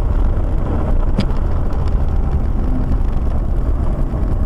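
Loud, steady low rumble of a car on the move heard through a dashcam microphone, with a single short click about a second in.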